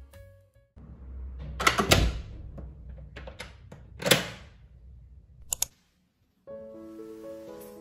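White uPVC door with a lever handle being worked and opened: loud knocks and clunks, then two quick sharp clicks, over a low background rumble. Background music ends just at the start and returns near the end.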